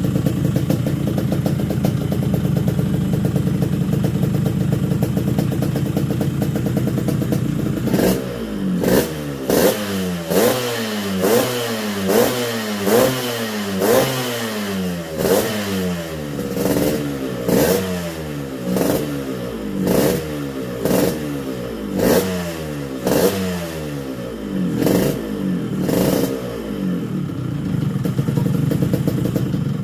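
Yamaha RX-King two-stroke single running through a bamboo-style racing exhaust: idling steadily, then from about eight seconds in blipped repeatedly, roughly once a second. Each blip rises in pitch with a sharp crack and falls back, and the bike settles to idle again near the end.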